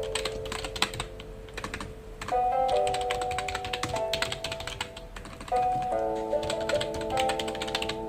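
Typing on a computer keyboard in three quick runs of keystrokes, over soft background music with held notes.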